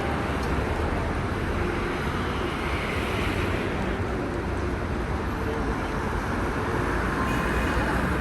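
Busy city street ambience: a steady wash of crowd chatter over a low traffic rumble, with no single sound standing out.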